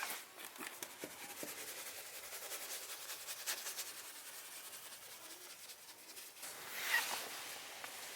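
Scrubbing and wiping of an interior surface during a vehicle interior detail, a steady scratchy rubbing with small clicks, and a louder brief stroke just before the end.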